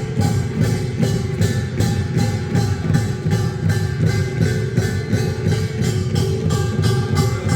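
Korean folk music with percussion: drums and struck instruments keep a quick, even beat under steady held melodic notes.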